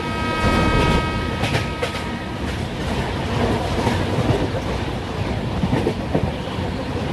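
Train running on rails. A locomotive's warning call of several steady tones holds until about two and a half seconds in, then the rumble and clatter of wheels over the track carries on.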